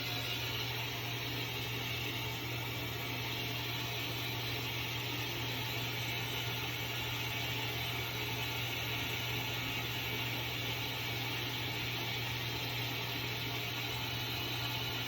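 Washing machine running: a steady mechanical hum with a low drone that does not change.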